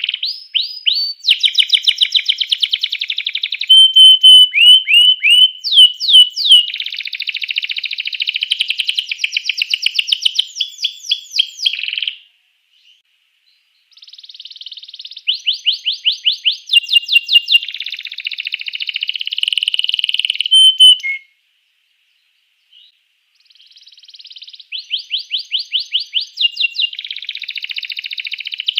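Domestic canary in full song: long phrases of rapid trills and rolls mixed with clear whistled notes. The song breaks off twice for a couple of seconds, about twelve and twenty-one seconds in.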